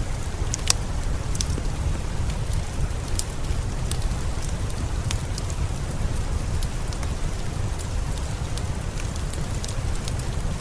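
Steady rain with a deep rumble underneath, mixed with scattered sharp pops and crackles of a fireplace.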